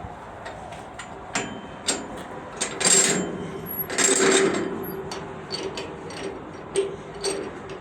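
Train making irregular metallic clanks and knocks, with two longer hissing bursts about three and four seconds in.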